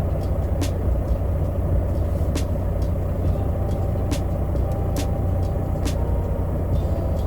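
Truck engine running steadily with a low rumble, heard from inside the cab, with a few sharp clicks at irregular intervals.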